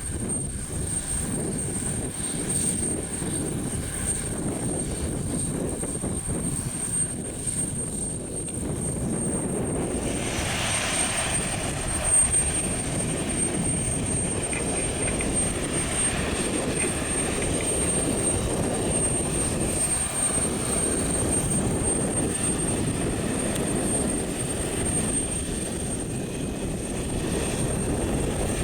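Jet airliner engines running with a steady low rumble. A higher hissing whine joins about ten seconds in and holds, and a thin steady high tone runs throughout.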